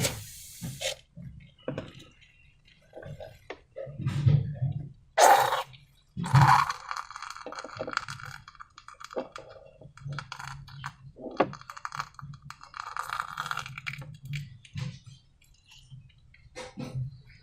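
Slime and balloon handling: irregular crackles, clicks and light clinks, with two louder bursts about five and six and a half seconds in.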